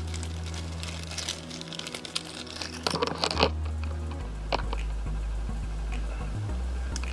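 Plastic figure packaging crinkling and rustling as it is handled, in irregular bursts that are densest in the first half, over low steady background tones.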